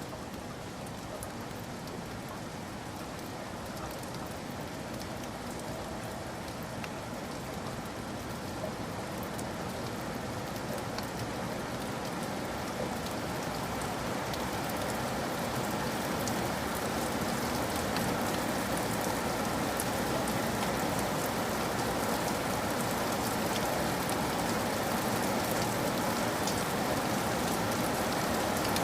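Steady rainfall, an even hiss of rain on surfaces with scattered individual drop ticks, slowly building louder.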